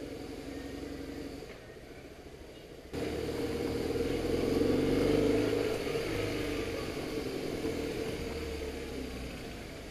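BMW motorcycle engine running under way, with road and wind noise. About three seconds in, the sound jumps abruptly louder, builds to a peak a couple of seconds later, then slowly eases off.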